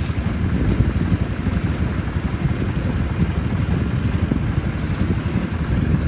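Engine running steadily, a dense low throbbing rumble with no change in speed.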